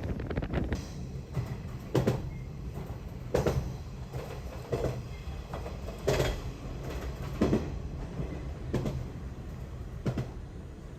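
West Express Ginga train running on the rails, heard inside the carriage: a steady low rumble with rail-joint knocks at an even pace of about one every second and a half.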